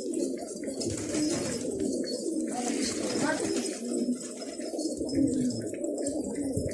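Many domestic pigeons cooing at once, a continuous overlapping chorus of low coos.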